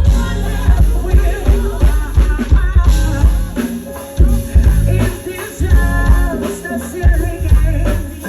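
Live band music with a woman singing over drums and a strong bass line.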